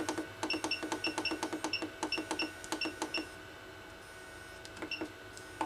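Electronic buttons pressed in quick succession, each press a click with a short high beep: about a dozen presses in the first three seconds, a pause, then a few more near the end.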